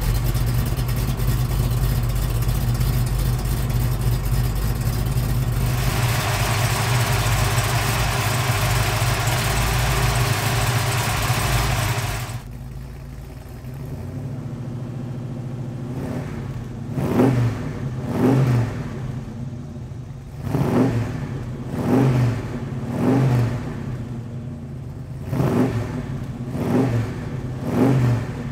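502 cubic inch GM Performance Parts big-block V8 in a 1970 Chevrolet C10 running steadily at a raised idle for about twelve seconds, then dropping suddenly to a lower idle. From the middle on it is blipped in about eight short revs, each rising and falling back to idle.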